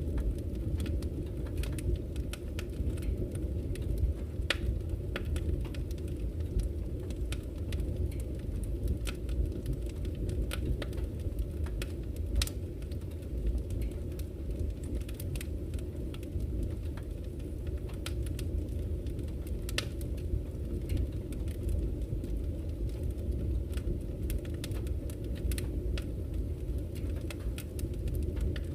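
Wood campfire crackling, with frequent irregular sharp pops and snaps, over a steady low rush of flowing river water.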